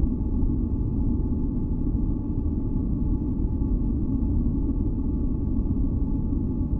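Continuous synthesized masking noise for sleep, deep and rumbling rather than hissy, with faint sustained tones held above it; it does not change.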